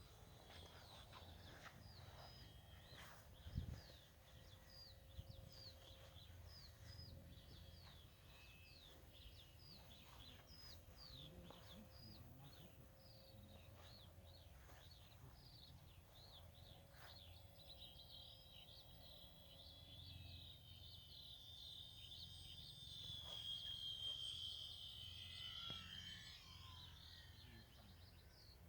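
Faint birdsong of short, repeated high chirps. From around two-thirds of the way in, the high whine of the electric motor of an RC Hawker Hurricane model builds as the plane approaches, is loudest a little later, then drops in pitch as it flies past.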